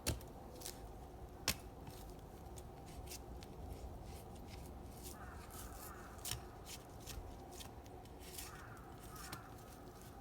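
Scattered sharp knocks and clicks over a low background rumble, with a faint warbling sound twice.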